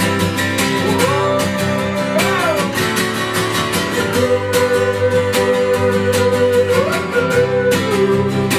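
Acoustic band playing an instrumental passage: strummed acoustic guitar with bass, under a lead melody that slides between held notes.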